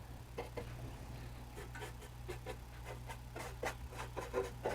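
Faint, irregular short rubbing strokes of a blending tool working charcoal into textured charcoal paper, several a second.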